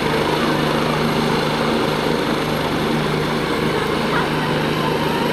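Helicopter running steadily, its engine and rotors giving a constant, loud hum with no change in pitch.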